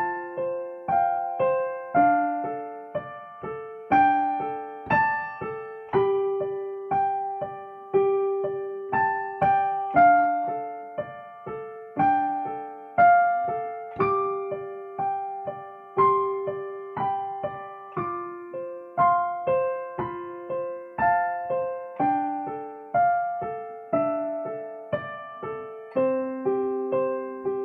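Solo piano playing a slow melody over lower accompanying notes, struck about twice a second, each note dying away after it is struck.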